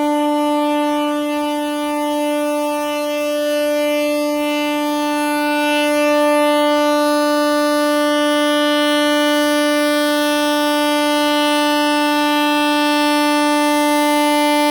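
Railway locomotive air horn sounding one long, unbroken blast at a single steady pitch.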